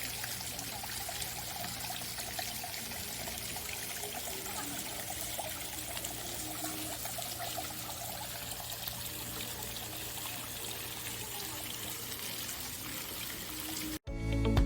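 Running water trickling and splashing steadily, as from a garden water feature or stream; it cuts off suddenly near the end and music begins.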